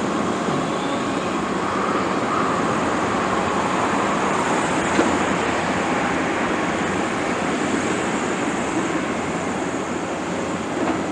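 Caterpillar 329E hydraulic excavator working, its diesel engine running steadily with a faint hydraulic whine, and a single knock about five seconds in.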